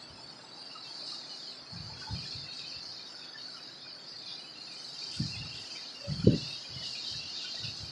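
Steady high-pitched insect chorus, like crickets, with a few short low thumps of wind buffeting the microphone, the loudest about six seconds in.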